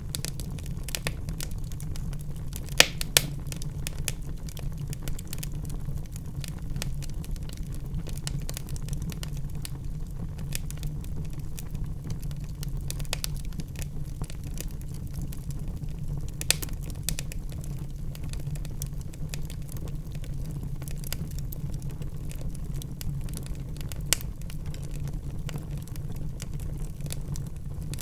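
Wood fire in a fireplace crackling steadily over the low rumble of the flames, with a couple of louder sharp pops about three seconds in and a few more later on.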